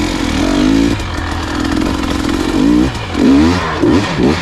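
Dirt bike engine under the rider's throttle on a hard technical line: running steadily at first, then revved in about four quick rising-and-falling bursts in the second half as he works the bike through the obstacle.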